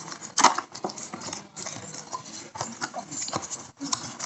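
Packaging and small motorcycle parts being handled during an unboxing: irregular rustling and light clicks and taps, with one sharper knock about half a second in.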